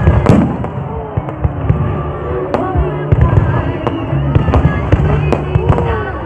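Fireworks going off in an irregular string of sharp bangs and crackles, with music playing underneath.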